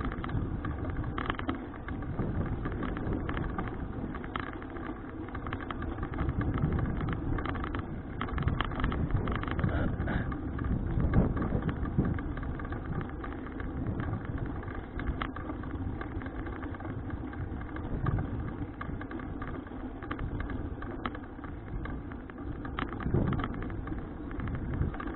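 Wind buffeting the action camera's microphone with road noise while cycling: a steady low rumble that rises and falls.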